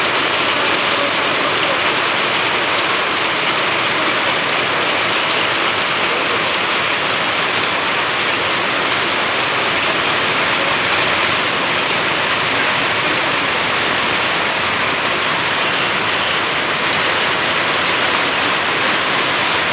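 Torrential downpour of rain: a dense, steady hiss of heavy rain falling on surfaces, unchanging throughout.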